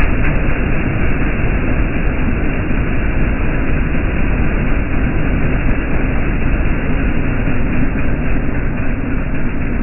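Steady, loud mechanical rumble of a running vehicle with a constant low hum, and faint rhythmic clicking near the end.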